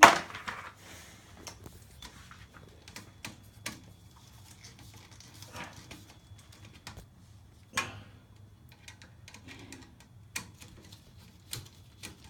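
Scattered light clicks and taps of small parts and tools being handled while wiring a thermostat relay, with a sharp click at the very start. A faint low hum runs underneath.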